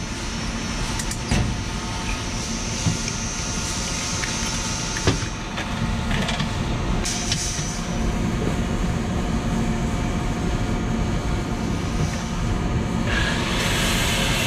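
Loud, steady workshop machinery noise with a low hum, broken by a few sharp metal clanks; a louder hiss comes in near the end.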